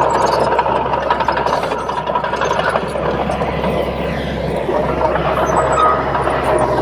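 Crawler bulldozer's diesel engine running under load, with the clatter of its steel tracks and a steady high whine throughout.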